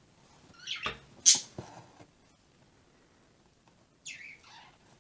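Pet parakeet chattering: a few short, high chirps a little over a second in, then a call that falls in pitch about four seconds in. A couple of soft taps are heard around the first chirps.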